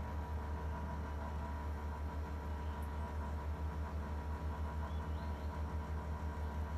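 Daikin air conditioner running with a steady low hum and a stack of steady tones above it, wavering quickly in level; this is the noise its owner finds strange.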